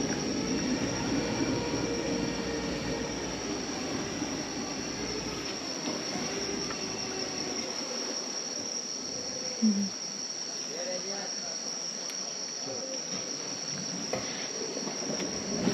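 Steady high-pitched drone of a rainforest insect chorus. A low rumble underneath dies away about five seconds in.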